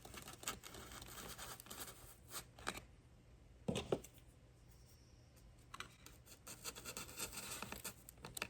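Foam airframe pieces and bamboo barbecue skewers being handled and pushed together, a run of light scratching and scraping with two sharper clicks a little under four seconds in.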